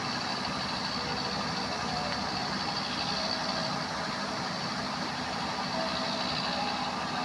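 Steady running noise of heavy vehicles, even in level, with no horn or sudden knocks.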